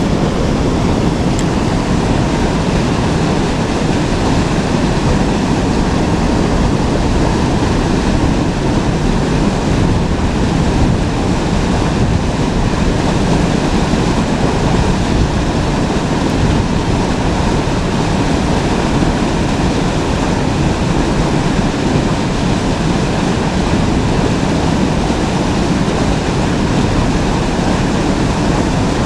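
Steady rush of flowing river water, a continuous even noise with no breaks.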